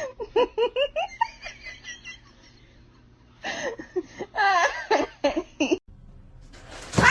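A person laughing in quick, short giggling bursts, in two bouts with a pause between.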